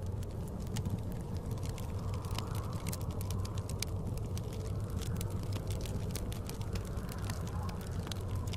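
Wood fire crackling in a fireplace: many irregular sharp pops and snaps over a steady low rumble of storm wind.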